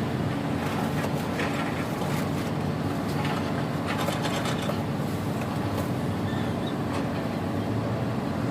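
Tugboat's diesel engine running steadily, a low even drone, with occasional light clicks and clanks over it.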